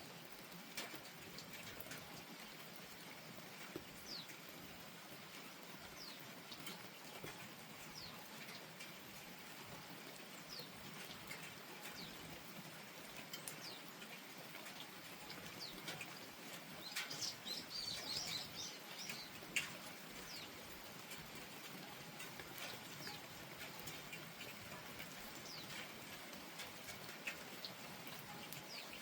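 Steady soft rainfall with drops ticking on nearby surfaces, while small birds give short, falling chirps every second or two. A denser burst of chirping comes about two-thirds of the way through.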